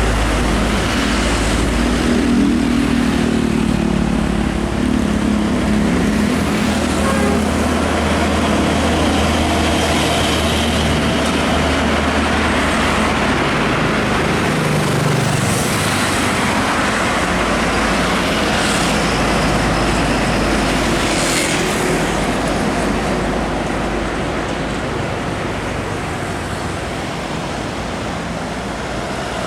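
Heavy trucks passing on a road: a steady drone of diesel engines and tyres. The engine note falls in pitch over the first few seconds as a truck goes by.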